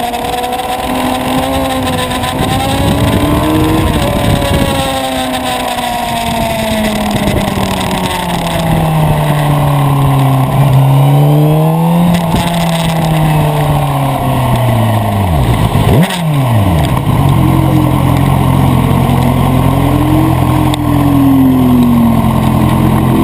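Suzuki sport motorcycle engine running at low revs, its pitch rising and falling gently with the throttle as the bike rolls along slowly. About two-thirds of the way in the revs drop sharply and it settles into a steady idle.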